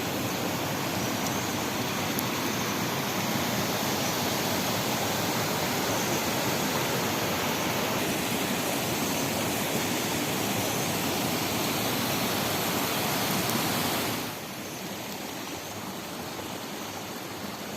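Rushing water of a spring-fed waterfall, a steady dense rush that drops to a quieter level about fourteen seconds in.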